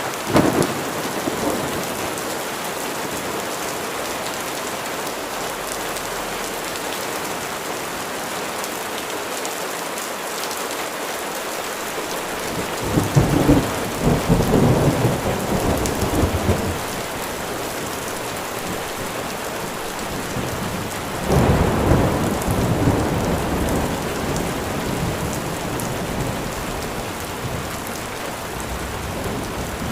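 Steady rain falling, with rolls of thunder: a short one right at the start, a longer rumble about 13 seconds in lasting some four seconds, and another about 21 seconds in.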